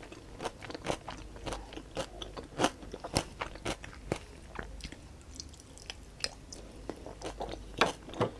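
Close-miked chewing: a mouthful of food being eaten with many small, sharp mouth clicks, a few each second. Near the end a wooden fork clicks and scrapes on the tray.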